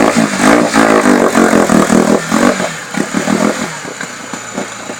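Motorcycle engine revving hard with quick pulsing throttle, its pitch rising and falling, then dropping back to quieter running about three and a half seconds in.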